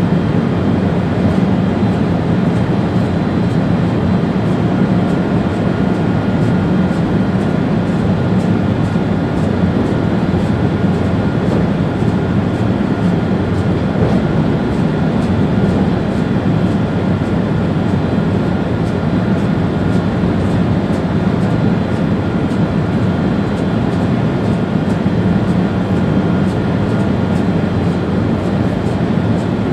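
ÖBB Railjet train running steadily along the line, heard from inside the driver's cab: a constant running noise with a faint steady whine over it.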